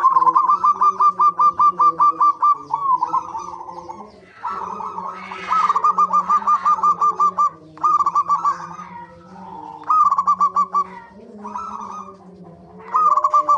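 Zebra doves (perkutut) calling: runs of fast, repeated cooing notes, several bursts in a row, with softer lower notes beneath.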